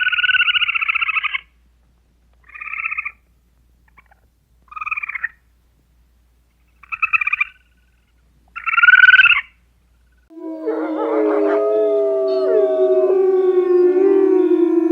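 Animal calls: five short, raspy calls with gaps between them, then, about two-thirds of the way through, a chorus of several overlapping howling voices that glide up and down in pitch.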